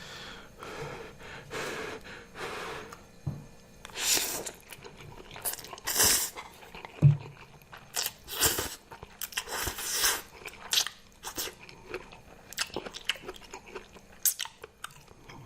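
Close-up eating sounds: chewing and crunching food in irregular bites, with a few louder noisy bursts.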